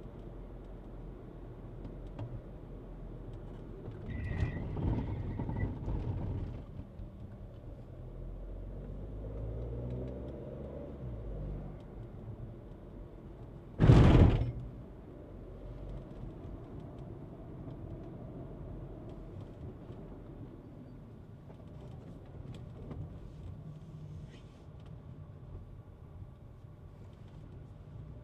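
Low engine and road rumble inside a Skoda Kushaq's cabin on the move. It gets louder for a couple of seconds about four seconds in, and there is one loud, short thump about halfway through.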